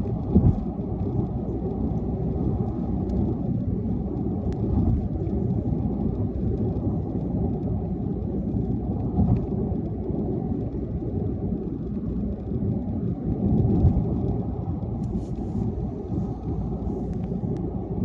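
Steady low rumble of a car driving, with a couple of brief thumps.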